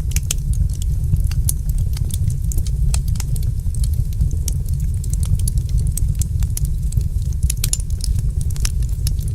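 Wood fire in a fireplace crackling, with frequent sharp, irregular pops over a loud, steady low rumble.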